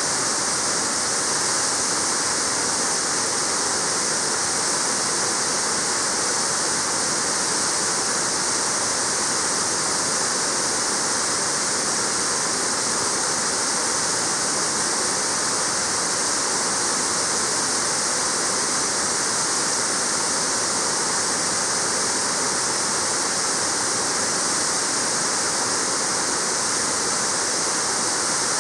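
Waterfall rushing and splashing in a steady, unbroken hiss.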